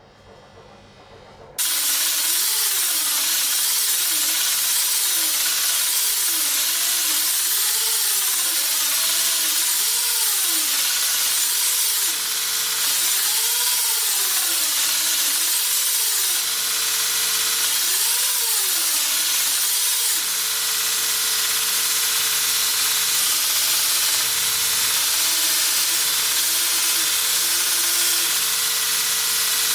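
Power grinder working on steel: a steady, loud hiss that starts suddenly about a second and a half in, with a faint whine that wavers up and down as the load changes.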